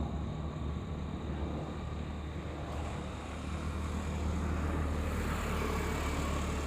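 Airplane passing overhead: a steady, distant engine rumble that swells slightly about four seconds in.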